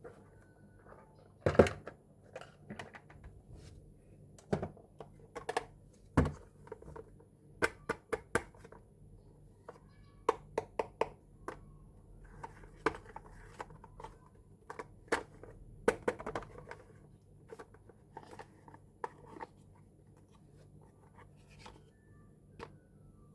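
Miniature plastic toy kitchen pieces and their packaging being handled: irregular sharp clicks and taps of small plastic parts set down and knocked together, with stretches of plastic crinkling.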